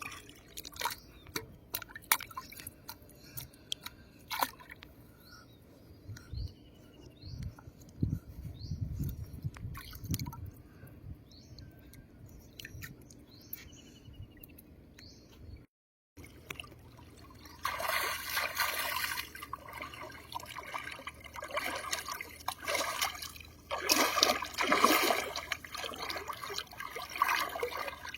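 Lake water dripping and trickling in scattered small splashes, which turn into busier, near-continuous splashing and sloshing after a brief cut about sixteen seconds in.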